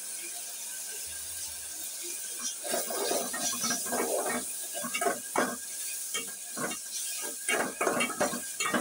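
Onion-tomato masala with freshly added ground spices sizzling in hot oil in a metal pot. From about two and a half seconds in, a perforated metal spoon scrapes and knocks against the pot in quick repeated strokes as the mix is stirred and fried.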